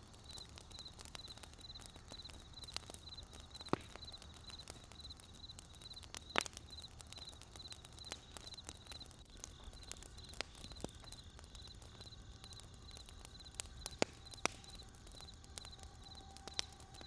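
Wood fire crackling with scattered sharp pops, the loudest about four, six and fourteen seconds in. A fast, even, high-pitched chirping runs through the first half over a steady low rumble.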